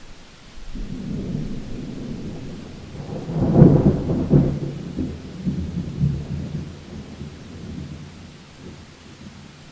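Thunder rumbling in a thunderstorm, building from about a second in to a loud crackling peak near the middle, then rolling away and fading, over a steady faint hiss of rain.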